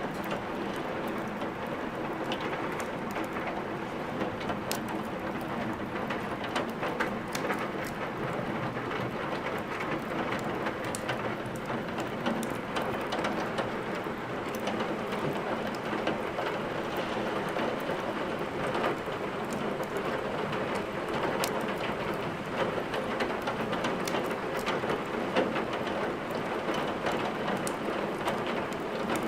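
Steady rain hissing, mixed with the crackle of burning wood in a fireplace: many small, sharp pops scattered over the even sound of the rain.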